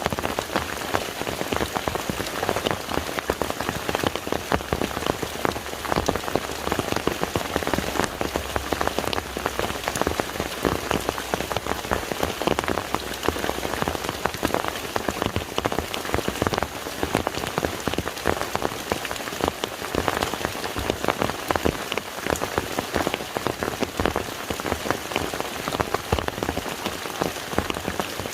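Steady rain falling on a lake, a dense, even patter of many individual drops hitting the water.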